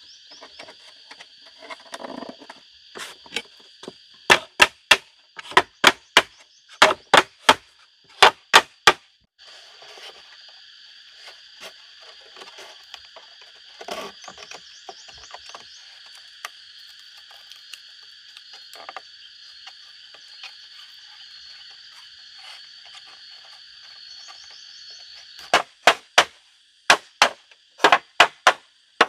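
Two runs of sharp chopping strikes, about two a second, the first about four seconds in and the second near the end, over a steady high-pitched chorus of frogs and insects.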